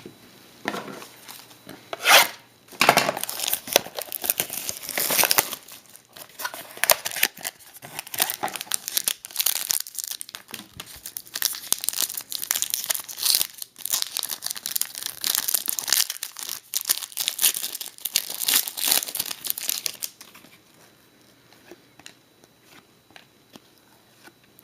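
Plastic packaging crinkling and tearing as trading cards are unwrapped and handled, a dense crackly rustle that dies down about four seconds before the end.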